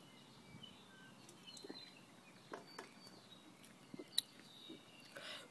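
Faint, scattered bird chirps in the background, with a few sharp clicks.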